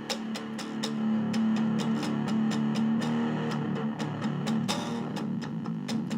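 Electric guitar played through a Boss DS-1 distortion pedal modded for octave fuzz: a held low note picked over and over at an even pace, about three to four strokes a second.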